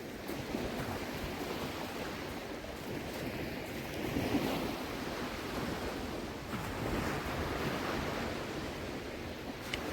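Small waves washing in at the shoreline, with wind on the microphone; the wash swells about four seconds in and again around seven seconds.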